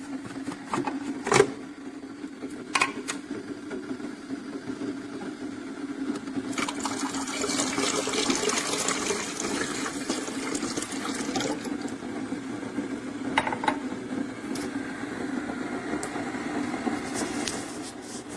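Keurig K-Classic single-serve pod coffee maker brewing: a steady pump hum with a few sharp clicks, and a louder hissing rush of water through the machine partway through.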